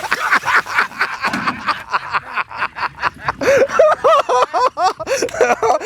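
People laughing hard in rapid pulses, with a high-pitched run of laughs in the second half.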